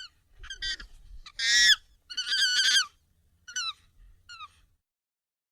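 Monkey calls sped up and pitched high: a string of short squeaky calls, the loudest about a second and a half in, followed by a longer run of calls.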